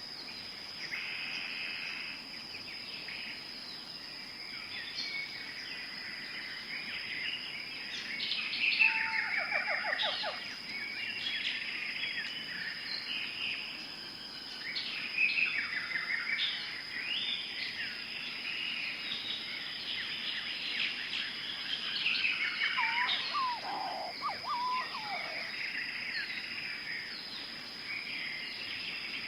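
Tropical forest ambience: many birds chirping and trilling over one another, with a steady high-pitched tone underneath. A falling trill stands out about a third of the way in, and a lower series of calls comes near the end.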